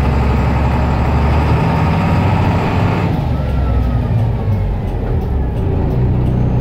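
Blue Bird school bus engine running as the bus reverses, a steady low drone. About three seconds in the engine eases off and the higher hiss drops away, leaving a faint falling whistle.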